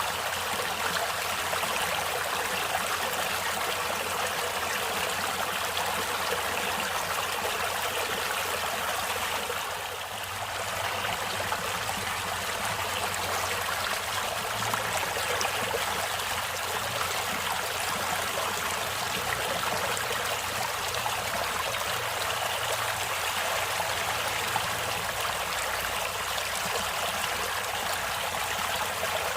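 Natural water flowing steadily in a stream, an even rushing and trickling, with a brief slight drop in loudness about ten seconds in.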